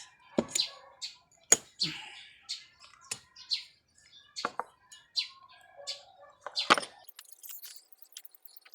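Irregular sharp clicks and taps of small switch parts being handled and knocked together, about a dozen in a few seconds.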